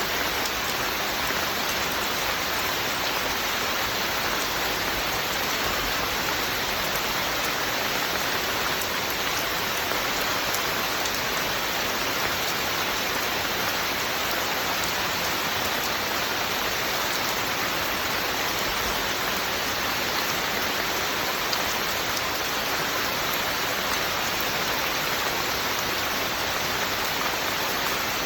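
Steady rain falling, an even hiss without letting up.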